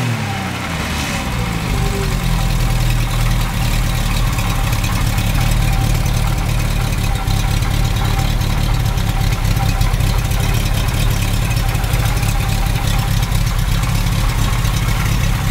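Renault Dauphine's four-cylinder engine dropping back from a rev in the first second or two, then idling steadily.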